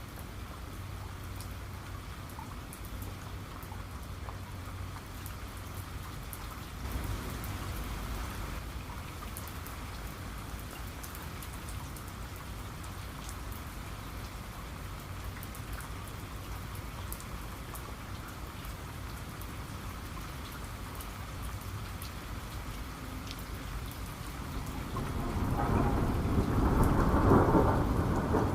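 Steady rain falling, with scattered ticks of individual drops. A low thunder rumble builds about 25 seconds in and is the loudest sound, still rolling at the end.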